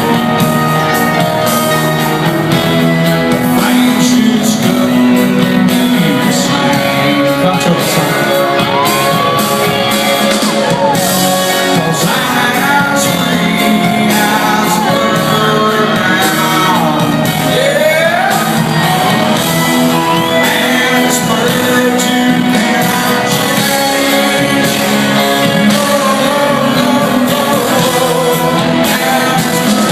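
Rock song with singing over electric guitar, loud and steady throughout, with notes that bend and slide in pitch.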